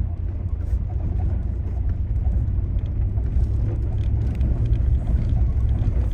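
Off-road vehicle driving slowly over a rutted, potholed dirt road: a steady low rumble of engine and tyres, with faint small knocks and rattles.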